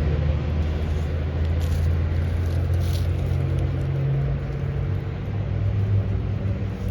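A car running steadily, a low engine and road rumble that eases off slightly about halfway through.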